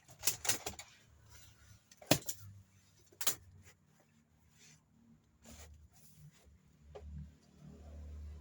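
Objects being handled and set down while gear is tidied away: a quick cluster of clicks, then single sharp knocks about two and three seconds in, fainter taps later, and a low rumble near the end.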